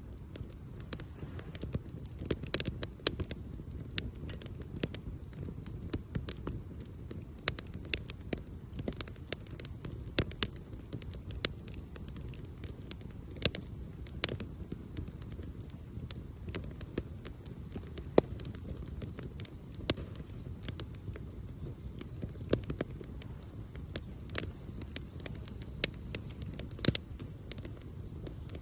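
Wood campfire crackling, with irregular sharp pops and snaps of burning wood over a low steady rumble.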